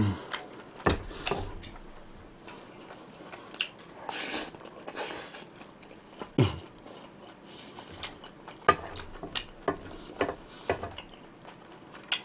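A person chewing a mouthful of spicy stir-fried pork and rice close to the microphone: irregular wet smacks and clicks of the mouth.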